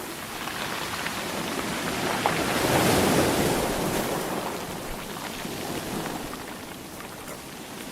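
Ocean waves washing on the shore, one swell building and breaking about three seconds in and then receding into a softer wash.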